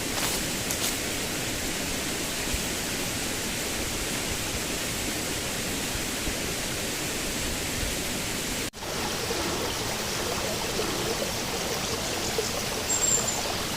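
Mountain stream running over rocks, a steady rush of water noise. It cuts out for an instant about nine seconds in, then carries on.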